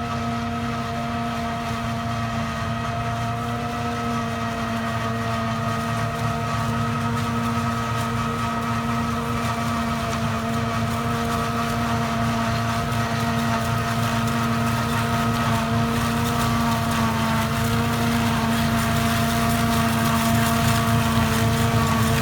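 Disc-type forage harvester running steadily: a constant machine hum at one unchanging pitch, growing slowly louder.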